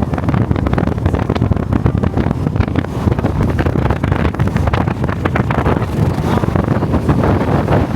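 Strong wind buffeting the microphone: a loud, constant rough rumble with irregular gusty crackle.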